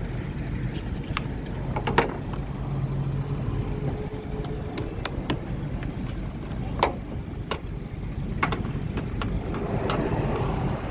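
Steady low rumble of a running vehicle, with scattered sharp clicks and knocks.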